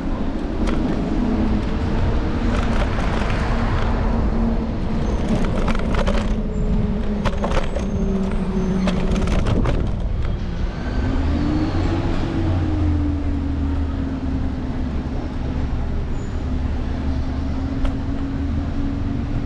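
City street traffic with a steady low rumble and a vehicle engine hum that rises in pitch about twelve seconds in. A few sharp clicks come around the middle.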